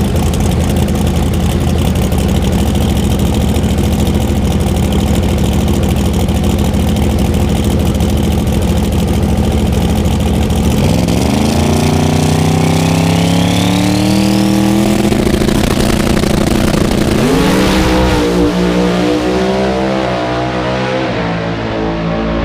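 Pro Modified drag cars' engines, one twin-turbo and one supercharged, running loud and steady. About eleven seconds in the pitch sweeps up as they accelerate away, and it rises again about seventeen seconds in.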